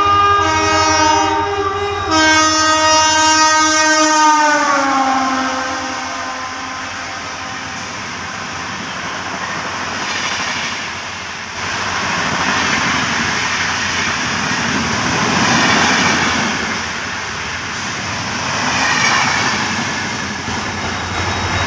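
An express train running through at speed, sounding its multi-tone horn twice. The horn's pitch drops as the locomotive passes, followed by the rushing rumble and clatter of the carriages going by, swelling and fading.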